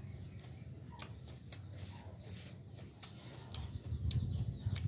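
A person chewing a mouthful of noodles, with short sharp mouth clicks and smacks scattered through it over a low steady rumble.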